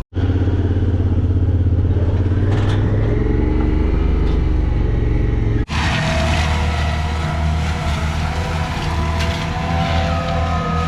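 Skid steer's diesel engine running steadily at high revs, in two pieces with a sudden cut a little over halfway, the second piece slightly different in pitch.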